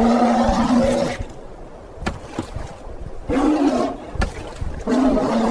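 A bear growling in three rough, pitched bouts, with two sharp knocks in the gaps between them.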